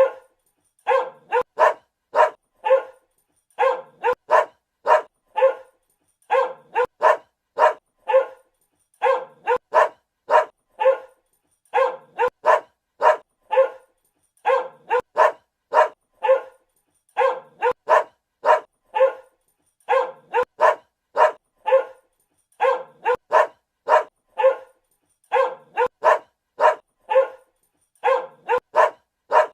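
Dog barking in quick runs of about four barks, each run repeating at an even pace about every two and a half seconds.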